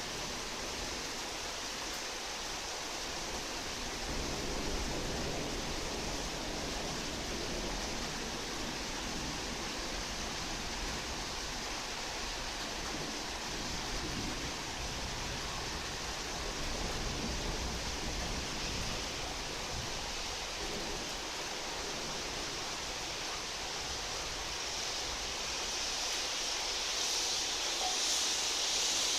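Steady heavy rain, an even hiss that swells a little louder near the end.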